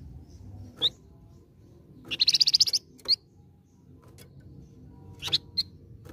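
Scarlet minivet (flamboyan) singing: a few short, sharp rising chirps and, near the middle, one loud rapid trill of about ten notes lasting under a second.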